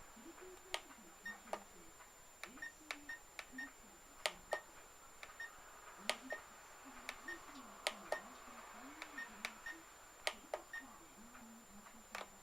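Irregular sharp clicks, roughly two a second, many followed by a short high beep, over faint low wavering tones and a thin steady high whine.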